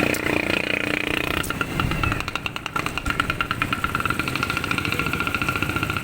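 A small motorcycle engine running with a rapid, even putter.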